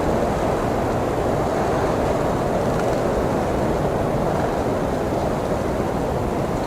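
Blizzard wind blowing steadily: an even rushing noise, strongest in the low-middle pitches with a rumble underneath.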